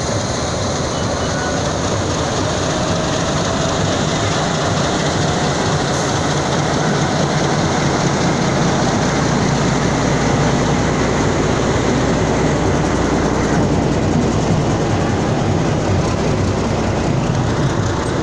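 Passenger train moving past, its coaches rolling on the rails with a steady running noise that grows a little louder about six seconds in.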